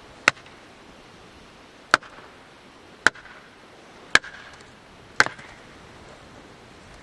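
Five sharp knocks about a second apart, each with a brief ring after it, over a faint steady hiss.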